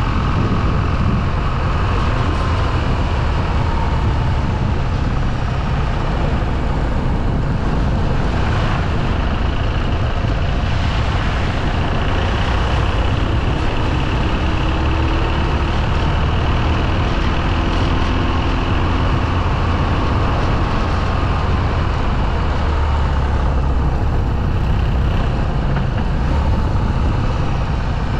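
Motorcycle engine running steadily under way, its pitch drifting gently up and down, over a constant rush of wind and road noise.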